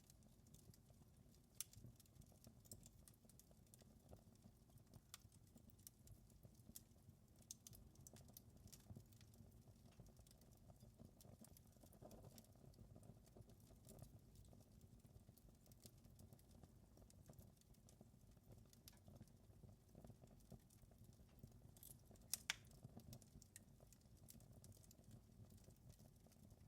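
Wood fire crackling softly: scattered small pops and snaps at an irregular pace over a low steady rumble, with one sharper pop near the end.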